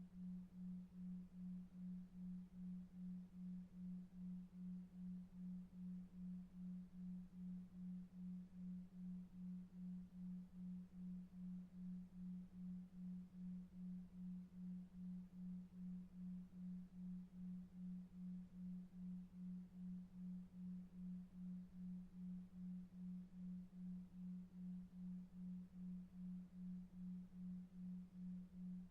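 Faint, steady low pure tone pulsing about two and a half times a second, a 2.5 Hz delta-wave sleep tone, over a faint low rumble of brown noise.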